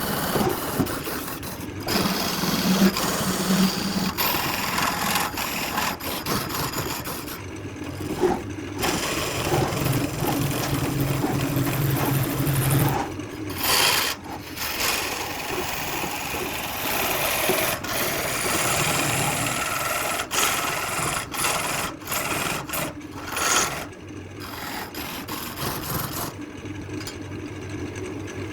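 Wood and epoxy resin being worked on a running wood lathe: a continuous rasping, rubbing sound of a tool or abrasive against the spinning piece, with a steady low motor hum underneath at times.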